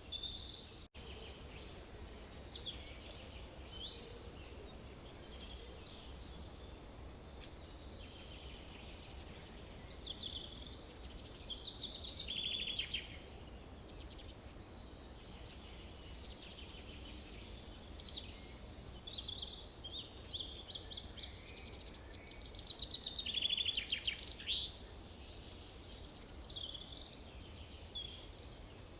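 Forest birdsong: several birds chirping and calling over a steady low background noise, with two louder rapid trilled songs, one around twelve seconds in and one around twenty-three seconds in. The sound drops out for a moment about a second in.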